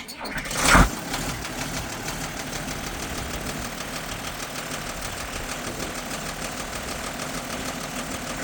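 A 2290 diesel tractor engine starting: a short loud burst as it fires up within the first second, then settling into a steady, evenly pulsing idle.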